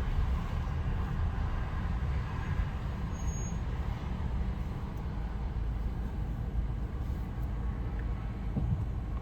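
Steady low vehicle rumble with no distinct events, heard while a long coal train passes amid road traffic.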